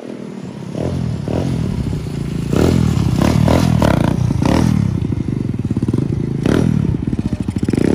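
A 125cc four-stroke dirt bike engine running while ridden, with several quick revs in the middle. Near the end it chugs at low revs, lugging in too high a gear, which the rider's friend says is what makes it stall.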